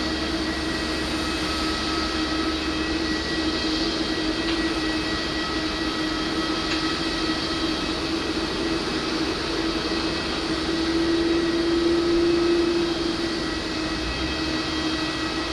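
Steady jet noise from a Boeing 787-9 airliner during pushback: a continuous hum with a high whine, swelling slightly about eleven seconds in.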